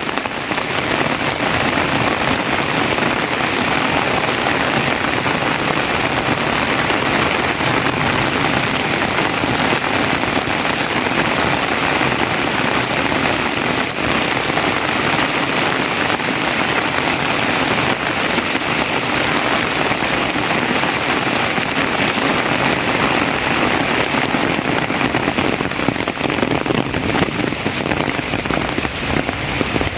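Heavy rain falling steadily on the surroundings, a dense even hiss without a break.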